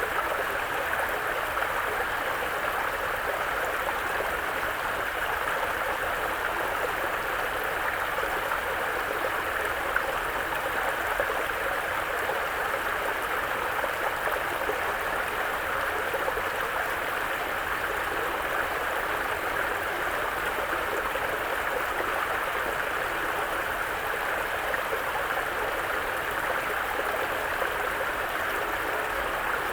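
Mountain brook flowing, a steady, even rush of water.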